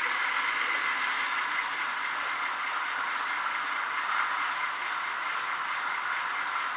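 H0-scale model trains running on the layout: a steady whirring and rattling of small motors and wheels on the rails, even in level throughout.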